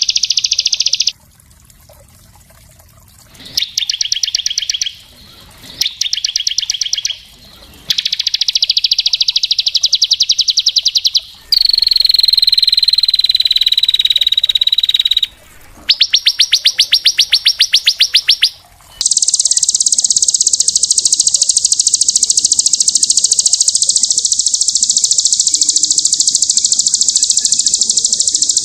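Small songbird singing very fast, high trills in bursts of one to four seconds that start and cut off abruptly, one with a whistled note running through it, then a long unbroken trill over the last third: dense rapid-fire song used as a training recording for songbirds to copy.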